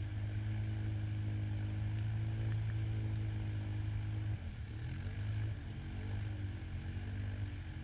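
Kymco Maxxer 300 quad's engine running at steady revs, then about halfway through the revs drop and it is revved up and down several times.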